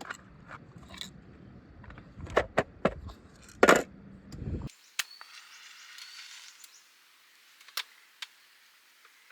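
A run of sharp clicks and knocks over a low rumble, loudest just before the middle. It cuts off suddenly to a faint hiss with a few scattered clicks.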